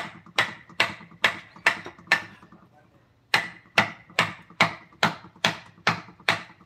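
A mallet striking a wood-carving chisel into wood, in steady strokes a little over two a second. The strokes come in two runs, with a pause of about a second near the middle.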